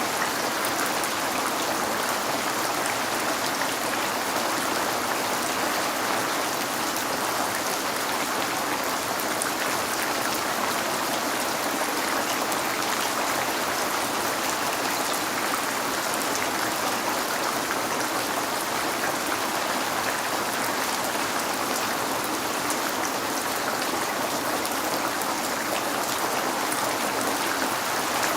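Rain falling on a window, a steady even hiss with faint scattered ticks of drops.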